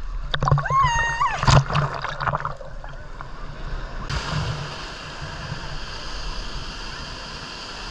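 Sea water splashing, with a short held cry in the first couple of seconds, then a steady wash of sea water and surf.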